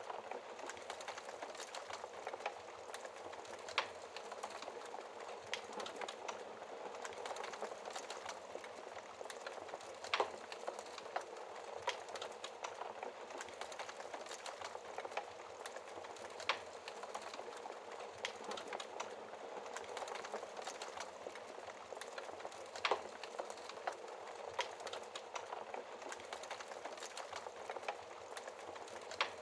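Wood fire burning in a fireplace: a steady hiss with many small crackles and snaps, and four louder pops spaced about six seconds apart.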